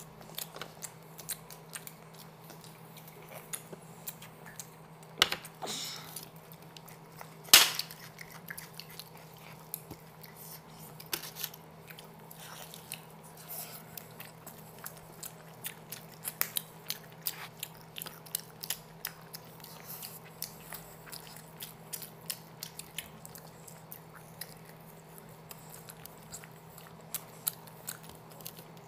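Close-up eating sounds: two people chewing and biting into chicken tangdi kabab and biryani, with many short, irregular mouth clicks. Two louder sharp clicks come about five and seven and a half seconds in.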